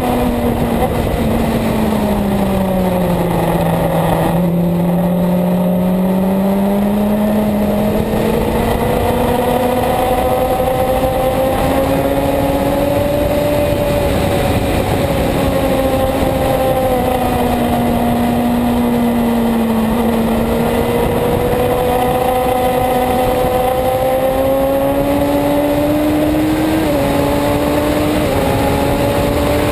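Suzuki GSX-R750 sportbike's inline-four engine running hard around a race track, its note falling under braking about four seconds in, then climbing as it accelerates, dipping again later and changing pitch in quick steps near the end as gears are changed. Steady wind rush over the camera throughout.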